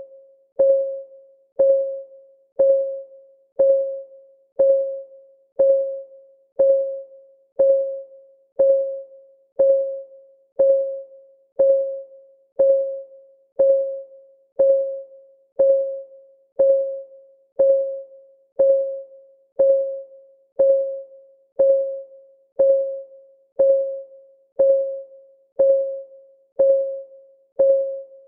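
Countdown timer's clock-ticking sound: a steady tick once a second, each a short click with a brief, pitched ring that fades quickly.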